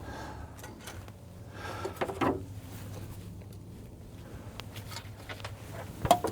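Engine oil draining from the truck's open drain plug over a steady low hum. There are a couple of sharp knocks, one about two seconds in and a louder one near the end.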